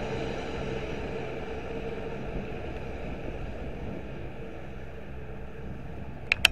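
Train noise at the station, a steady rumble with a held hum that slowly fades away. Just before the end come two sharp clicks, and then the sound cuts off.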